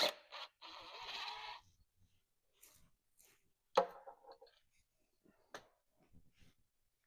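Socket wrench work on engine bolts: a rasp about a second long near the start, then scattered sharp metal clinks and taps, the loudest a little past the middle with a short ring.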